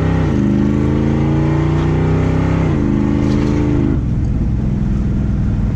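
Cammed 383 stroker small-block V8 of a 1972 Chevelle SS accelerating hard, heard from inside the cabin. The engine pitch climbs, then drops sharply twice as the Turbo 400 automatic upshifts, about a quarter second in and again near the middle. About two-thirds of the way through it eases off to a steady, lower running note.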